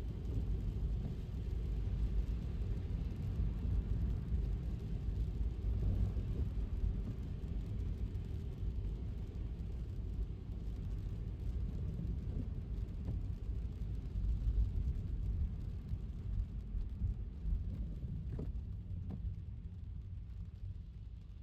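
Steady low road rumble of a car driving on a wet city street, mostly tyre and road noise rather than engine, easing off a little near the end.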